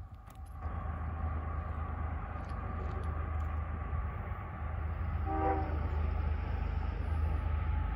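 CSX freight train's diesel locomotives and cars rumbling along the track, growing louder, with a brief locomotive horn blast a little past halfway through.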